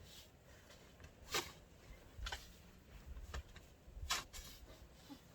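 Snow shovel working into deep snow: four soft crunching strokes about a second apart, the clearest about a second and a half in and a little before the end.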